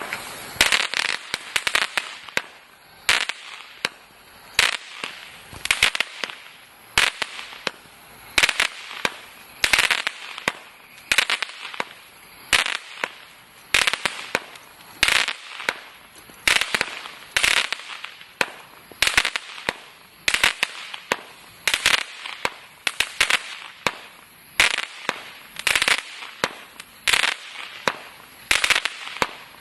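Total FX 'Crackling Wood' firework firing repeated bursts of sharp crackling, a new burst about every second and a half.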